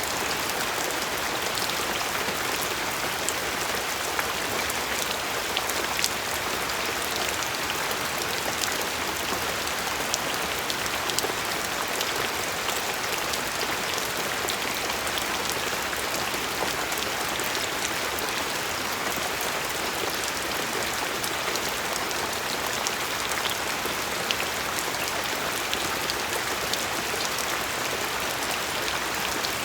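Steady rain falling, a dense hiss with many individual drops ticking on a surface.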